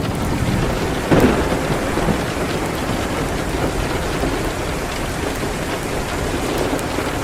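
Steady rain falling against a window, an even hiss throughout, with one sudden loud crack about a second in.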